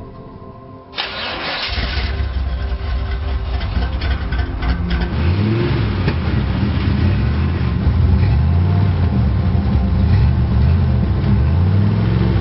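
An old car's engine starts about a second in and then runs, rising and falling in pitch as the throttle is pumped in short revs.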